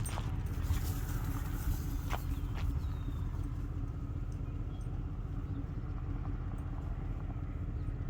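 Steady low rumble of a truck driving, engine and road noise heard from inside the cabin, with a few faint clicks.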